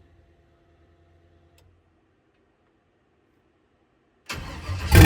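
Near silence for about four seconds, with a faint hum dying away early. Near the end a loud noise starts abruptly.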